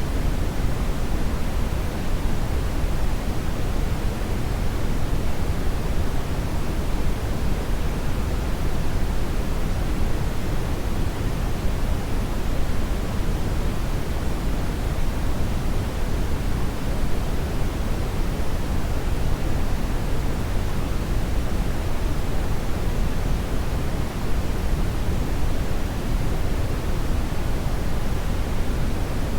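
Hair dryer running continuously: a steady, even rush of air noise, heaviest in the low end, with no change.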